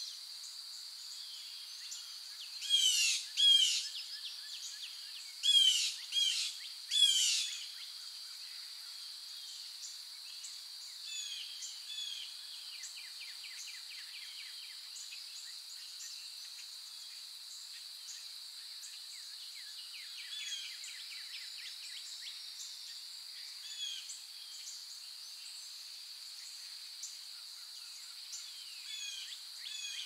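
Forest birds singing over a steady high-pitched hiss: a cluster of loud, downward-sweeping calls about three seconds in and another around six to seven seconds, with softer chirps and trills scattered through the rest.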